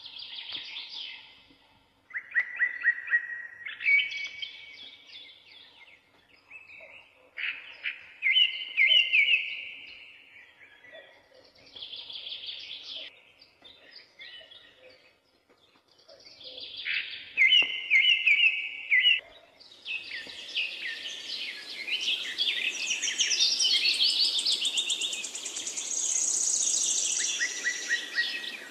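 Songbirds singing: short phrases of repeated chirps and trills with quiet gaps between them, becoming a busier, overlapping chorus over a steady hiss about two-thirds of the way in.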